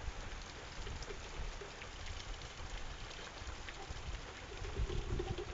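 Heavy rain pouring steadily: an even hiss with scattered drops ticking close by.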